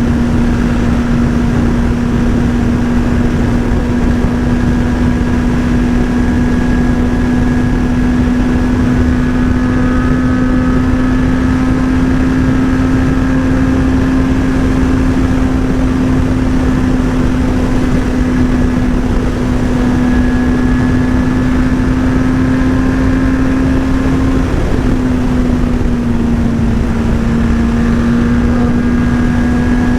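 Motorcycle engine at a steady cruising speed under heavy wind rush on the microphone; the engine note drops slightly about 25 seconds in, then holds steady again.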